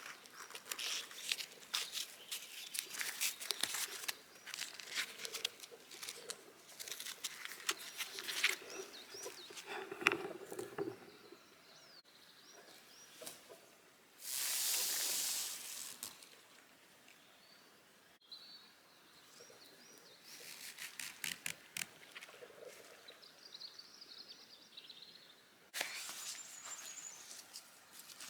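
Irregular close crackling and rustling, with a short steady hiss about halfway through and faint high bird chirps in the quieter stretch after it.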